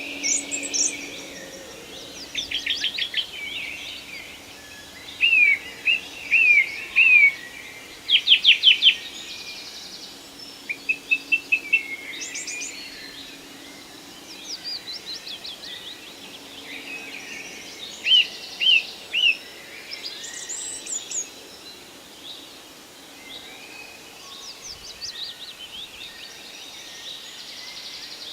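Several songbirds singing in a forest: short phrases of chirps, rapid trills and slurred whistled notes every second or two, over a faint steady background hiss.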